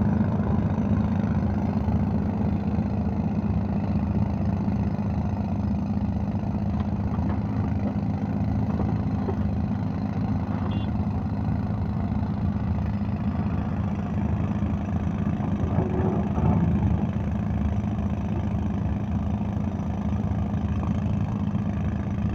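Diesel engines of a tracked excavator and a tractor running steadily while the excavator loads the tractor's trolley, with a brief louder swell about sixteen seconds in.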